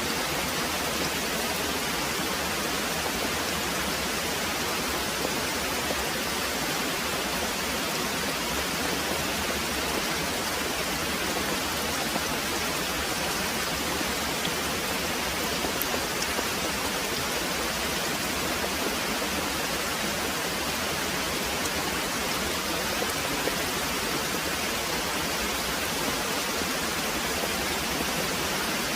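Very heavy rain pouring in a steady, even hiss.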